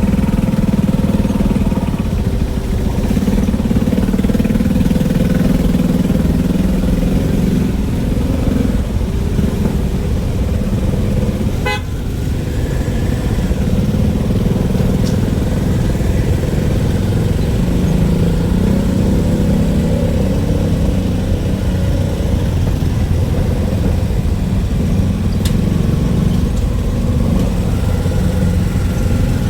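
Motor vehicle engine running steadily under way, with road and traffic noise.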